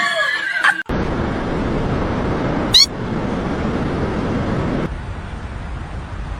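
A cat's short meow, which cuts off abruptly about a second in. A steady rushing noise follows, with one brief high chirp near the middle.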